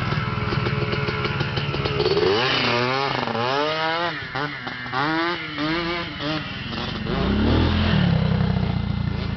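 Motorcycle engine running, then revved up and down repeatedly for a few seconds, with a louder low rumble about seven seconds in before it settles back to steady running.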